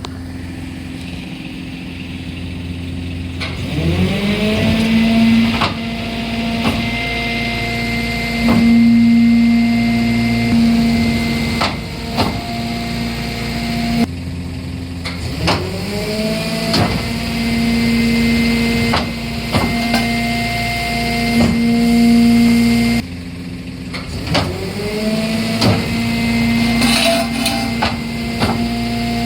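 Japanese garbage truck's press-type compactor at work: the engine speeds up and holds a steady higher speed to drive the packer, three times over, with sharp knocks and crunches of metal as a kettle is crushed.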